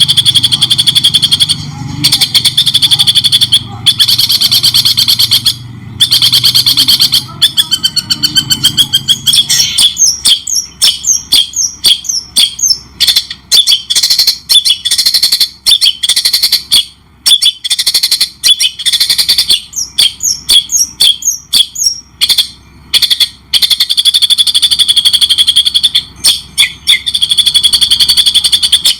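Songbird singing loudly: rapid, buzzy trilled phrases, broken about ten seconds in by quick separate chirps and short pauses, then trilling again near the end. It is a masteran, a song recording used to train murai batu.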